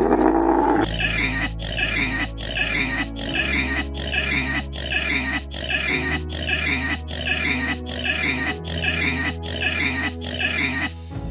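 A Bactrian camel's loud call, lasting under a second at the start. Then music with an even beat of about two a second over a low bass line.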